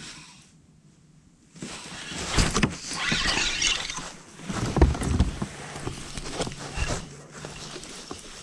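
A fish being reeled in and lifted into a kayak: reel winding, water splashing and knocks of handling, starting about a second and a half in.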